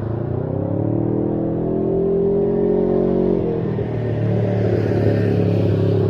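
Can-Am Ryker 600's two-cylinder Rotax engine through a Brannon King muffler with a 51 mm baffle silencer in the header pipe, revving up over the first two seconds, holding, then dropping in pitch about three and a half seconds in and running steady at a lower pitch.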